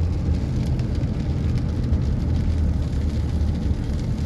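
Storm wind buffeting the microphone as a steady low rumble, with faint ticks of rain.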